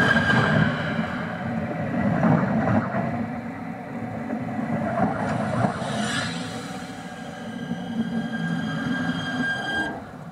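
Siemens Desiro passenger train braking to a stop: wheels rumbling on the rails with steady high-pitched squeals from the wheels and brakes. The sound dies away near the end as the train comes to a halt.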